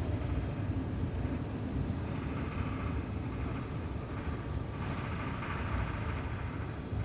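Cabin noise inside an Airbus A350-900 rolling on the ground, most likely taxiing: a steady low rumble with a hiss that grows brighter about five seconds in.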